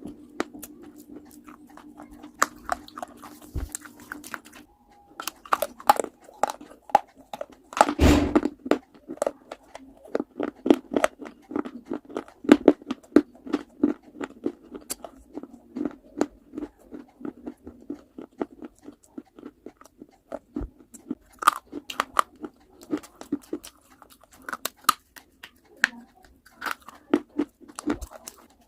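Hard baked clay being bitten and chewed close up: a dense run of brittle crunches with a loud snapping bite about eight seconds in.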